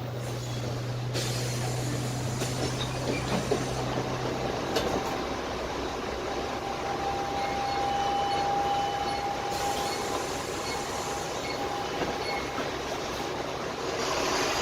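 Dennis Trident 12 m double-decker bus under way, heard from the lower deck: its Cummins ISMe diesel engine and Voith automatic gearbox running, with road noise. A low steady hum drops away about five seconds in, and a thin steady whine sounds through the middle.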